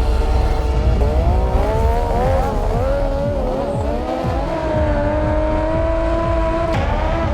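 A vehicle engine revving, its pitch swinging up and down repeatedly, then held steadier before a sharp rise near the end.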